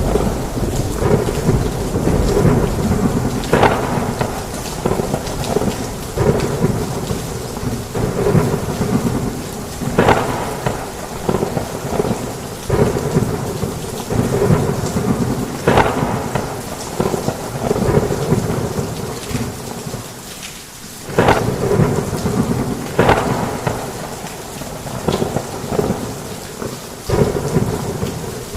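Heavy rain with continuous rumbling thunder, broken every few seconds by sharper thunder cracks. The rumble dips briefly about two-thirds of the way in, then a sudden crack comes back in.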